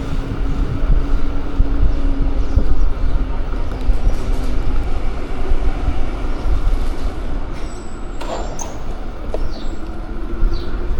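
Steady street traffic and riding noise with a heavy low rumble, heard from a moving bike. A few brief faint high tones come in about eight seconds in.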